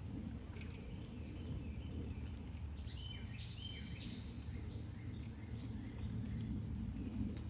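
Small backyard birds chirping in short, high notes, busiest in a cluster of quick stepped, falling calls about three to four seconds in, over a steady low background rumble.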